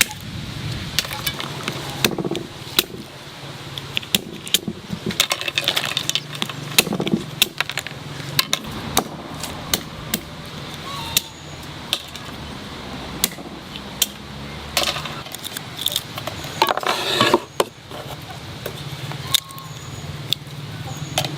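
Kitchen handling sounds: irregular sharp clicks and knocks of utensils and hands at work.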